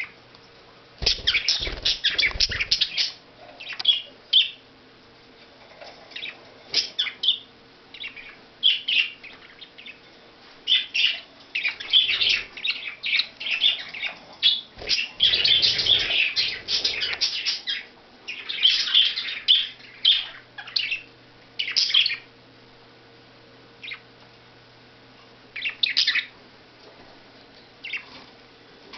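Budgies chirping and chattering in bursts of rapid high chirps, with short pauses between, busiest through the middle stretch.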